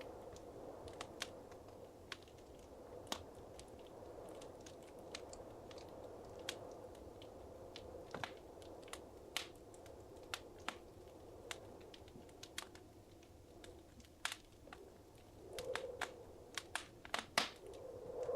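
Wood fire crackling in a fireplace: irregular sharp pops and snaps over a soft, steady rush of flame, the pops clustering more thickly near the end.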